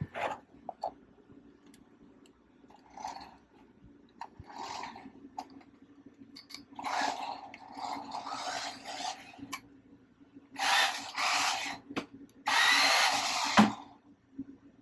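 Small electric motor and drivetrain of an RC toy truck whirring in bursts as it is driven, on a test run of its new driveline and rear differential. The longest runs come in the second half.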